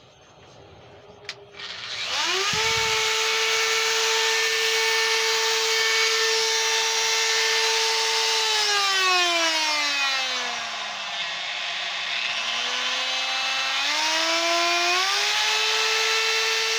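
Makita variable-speed die grinder with a Saburr super burr spinning up and carving green white pine: a steady high motor whine over the rasp of the burr tearing wood. About halfway through, the whine slides down in pitch and then climbs back up.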